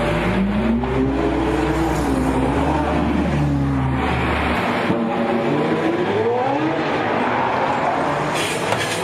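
High-performance car engine revving hard, its pitch climbing and dropping several times as it accelerates and shifts.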